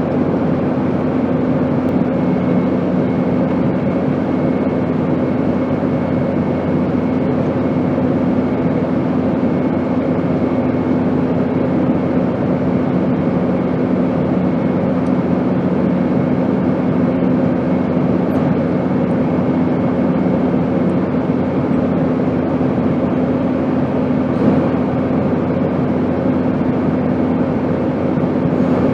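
Steady airplane noise: a constant rushing hiss over a steady low hum. A second, slightly lower hum joins about two seconds in and fades out a little after twenty seconds.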